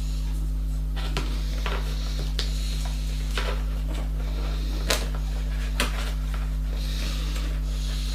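Several short, sharp clicks and knocks, about six of them spread irregularly, over a steady low hum.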